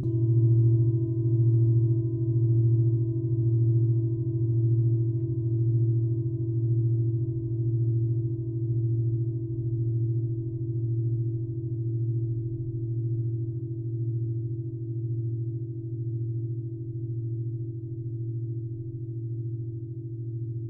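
A large singing bowl struck once, its deep tone ringing on with a regular wavering about once a second and slowly fading.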